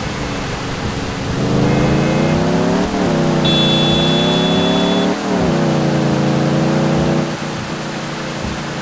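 Car engine heard from inside the cabin, pulling through the gears: its pitch climbs and drops sharply at two upshifts, about three and five seconds in, then it eases off near the end. A brief steady high tone sounds twice.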